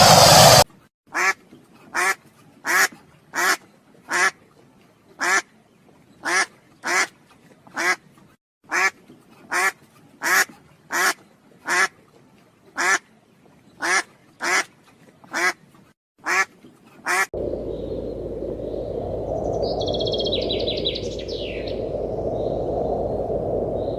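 An animal calling in a long series of short, evenly spaced calls, roughly one every three quarters of a second, with two brief pauses. About 17 seconds in, it cuts to a steady outdoor background with a few bird chirps.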